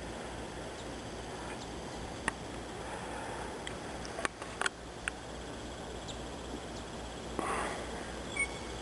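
Steady outdoor background hiss with a few soft, sharp clicks scattered through it, and one short breathy sniff about seven and a half seconds in.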